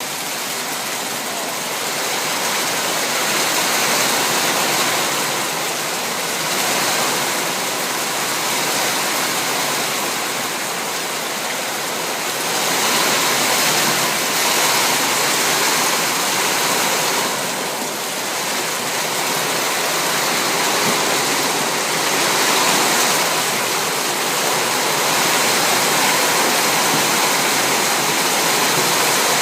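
Heavy rain falling, a steady hiss that swells and eases slowly in strength.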